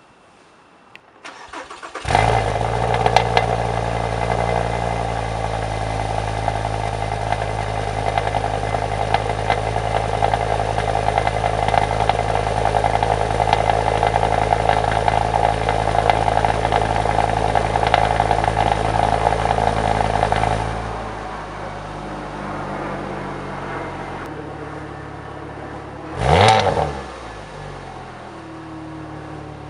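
A car engine starts about two seconds in and runs at a steady idle with a loud exhaust note. About twenty seconds in it settles to a quieter idle. Near the end a single quick rev rises and falls.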